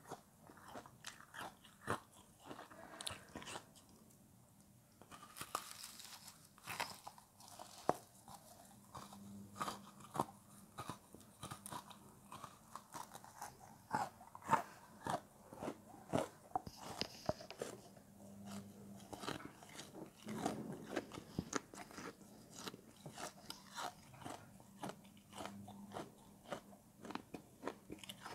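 Close-up crunching and chewing of frozen food: dense, irregular sharp crunches, with a short lull about four seconds in.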